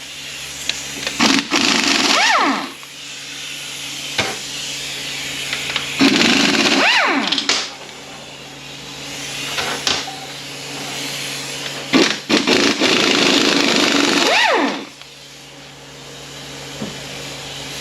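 Power wrench running bolts out of an automatic transmission case, likely 14 mm bolts, in three bursts. In each burst the tool's whir rises in pitch and then falls, with a hiss over it. The bursts come a second or two in, around seven seconds in, and around twelve to fourteen seconds in.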